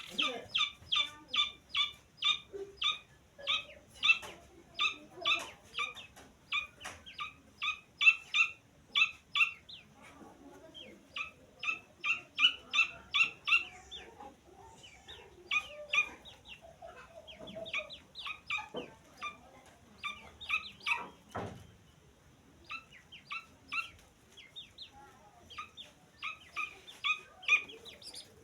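Francolin (teetar) chick calling: short, high-pitched peeps repeated rapidly, about four a second, in runs separated by brief pauses.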